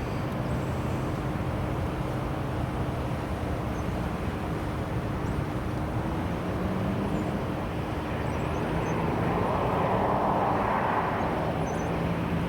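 Jet airliner engines running: a steady rumble with several held engine tones that slowly shift in pitch, swelling about ten seconds in.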